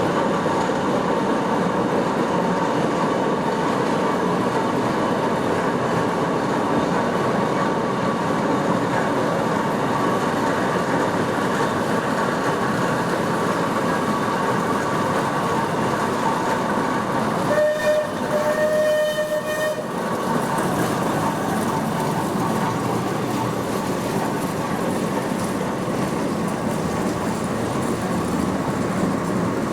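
Steam traction engine running along the road with a steady mechanical clatter. About two-thirds of the way through, its steam whistle sounds: a short toot, then a longer steady blast of about a second and a half.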